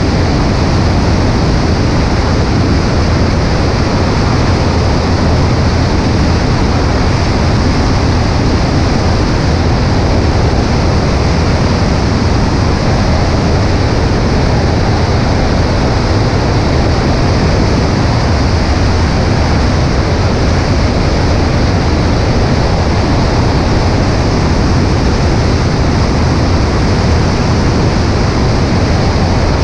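Steady in-flight noise of a Cessna 140A light plane: rushing wind with the drone of the engine and propeller underneath, unchanging throughout.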